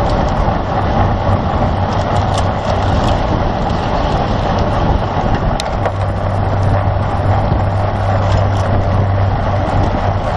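Steady rushing noise of a road bike at race speed, wind over the microphone mixed with tyre and road noise, with a low constant hum and a few light clicks.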